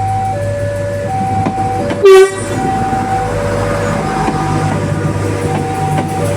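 Railway level-crossing warning signal sounding a steady two-tone alternation. About two seconds in, a KRL electric commuter train gives a very short, loud horn blast, and the train's rumble builds as it approaches the crossing.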